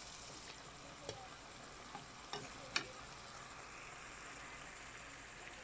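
Raw chicken pieces frying with onion and garlic in a frying pan, giving a steady faint sizzle. A metal spatula clicks against the pan a few times, loudest near the middle.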